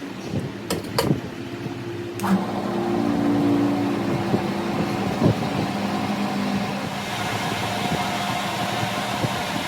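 A few sharp metallic clicks, then a machine motor starts about two seconds in and runs steadily with a constant hum.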